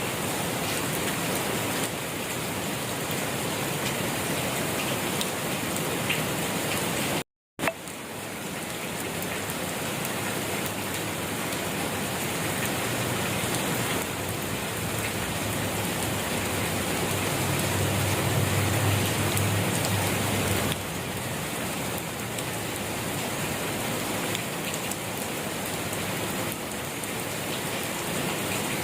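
Steady rain falling and pattering on surfaces, an even hiss with no pauses except a brief dropout to silence about seven seconds in. A low rumble swells under the rain just past the middle and fades a few seconds later.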